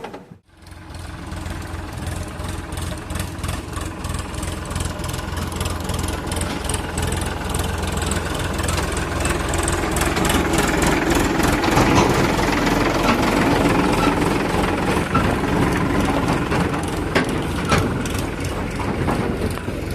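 A heavy diesel engine running steadily with a low hum and fine clatter. It grows louder toward the middle and eases a little near the end.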